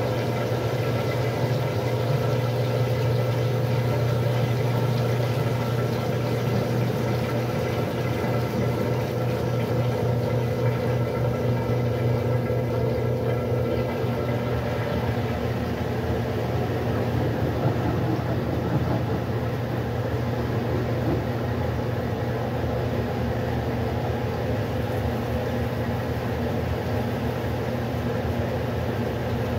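Westinghouse washing machine running: a steady motor hum with several constant tones under a rushing haze, its higher tone fading a little about halfway through.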